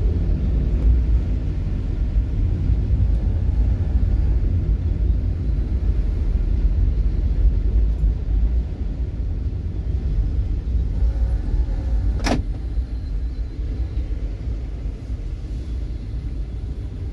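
Steady low rumble of a road vehicle in motion, with one sharp click about twelve seconds in.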